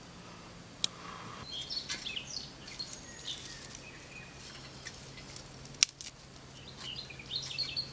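Small songbirds chirping and calling in woodland, in two short bursts. Two sharp clicks are heard, about a second in and near six seconds.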